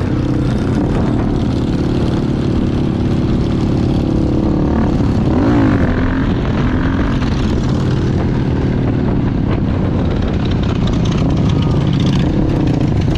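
Motorcycle engine running steadily under way, with a brief wavering in the note about five seconds in.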